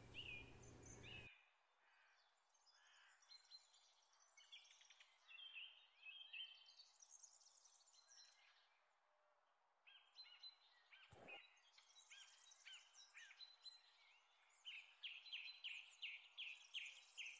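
Faint chirping of small birds: scattered notes at first, then a quick run of repeated chirps near the end. A steady background hiss stops about a second in, and there is a single faint click near the middle.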